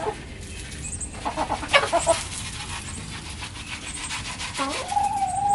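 Backyard chickens clucking as treats are handed out, over a patter of quick ticks. Near the end a chicken gives one long call that rises and then holds steady.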